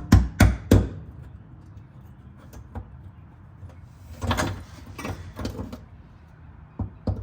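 A rapid run of knocks at the start that stops about a second in, then a few scattered clunks and bangs.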